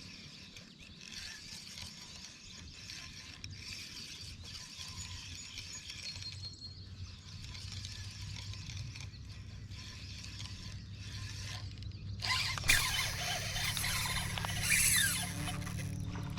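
Fishing reel being cranked, with a light mechanical clicking. About twelve seconds in, a louder, noisier rush sets in as a fish takes the bait and is hooked.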